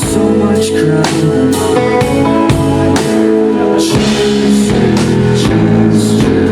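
Rock band playing live, heard through a camcorder microphone: held electric guitar chords over a drum kit keeping a steady beat of about two hits a second, with no singing.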